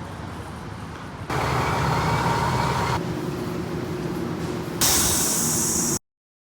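Fire truck engines running in a string of short, abruptly joined segments, with a loud air hiss like an air brake release near the end before the sound cuts off.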